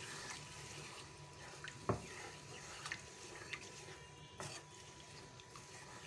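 Raw chicken livers sizzling faintly in hot oil in a pan, with a few clinks of a spoon against the pan as they are stirred.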